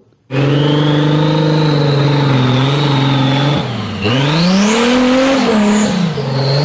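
Car engine running at a steady note, then its pitch dips and climbs again about four seconds in as it revs, with a high whine sweeping up over it.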